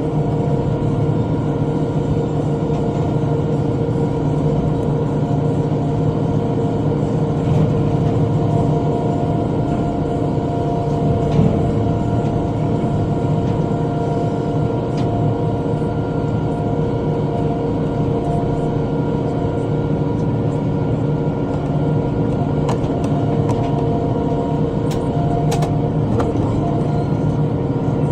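Tractor engine running steadily under load while driving a rotary cutter (bush hog) through brush, a constant drone, with a few light ticks in the second half.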